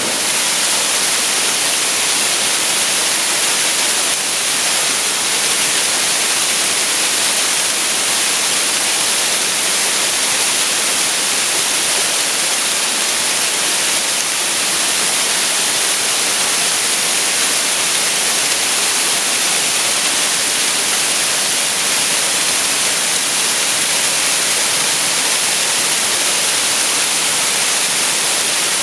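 Waterfall rushing steadily: an even, unbroken hiss of falling water, heaviest in the high range.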